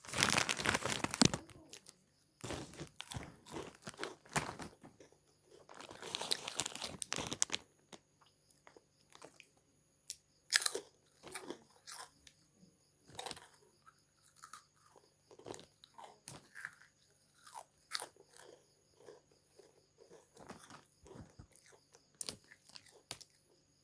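Crunchy packaged snacks being bitten and chewed close to the microphone: dense crunching near the start and again about six seconds in, then scattered single crunches with short pauses between.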